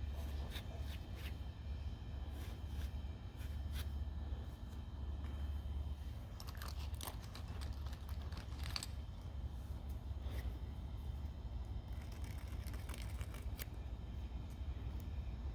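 Irregular scratching and scraping strokes of the brass parts of a vintage blow torch lamp being hand-scrubbed clean, over a steady low hum.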